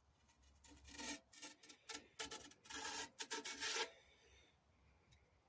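A quick, irregular run of rough scraping and rubbing strokes, metal parts of a minibike's front fork being worked by hand, lasting about three seconds and stopping before the end.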